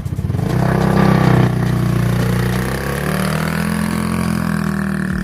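Polaris off-road vehicle's small engine pulling away from idle: it picks up speed about half a second in, then runs steadily at higher revs.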